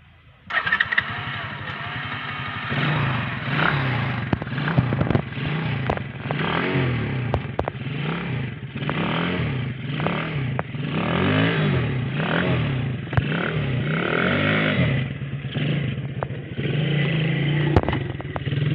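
Quad bike engine running hard, its pitch swinging up and down about once a second as the throttle is worked, with rattling and clattering over it.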